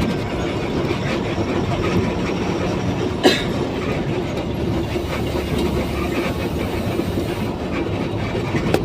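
A heavy vehicle running under way, with a steady rumble and low hum, light rattling clicks throughout, and one sharp knock about three seconds in.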